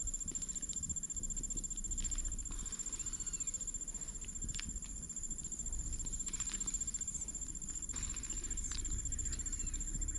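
Wood campfire crackling with scattered sharp pops under a low rumble, with a steady high-pitched insect drone throughout.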